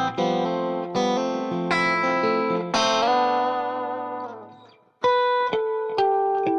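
Electric guitar, a Strat on its neck pickup, playing a clean intro phrase through an Xotic RC Booster with its gain backed off, into an amp model. Picked notes and chords repeat in a steady pattern and fade out about four seconds in, then a few single notes ring out near the end.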